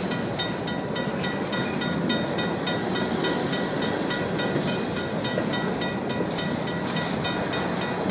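Covered hopper cars of a Union Pacific grain train rolling steadily past on the rails, with the crossing's RACO mechanical bell ringing rapidly and evenly over the rumble.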